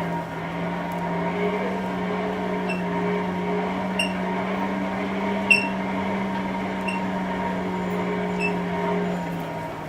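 Five sharp metallic ringing strikes, about one every one and a half seconds, typical of a blacksmith's hammer on an anvil, over a steady low mechanical hum.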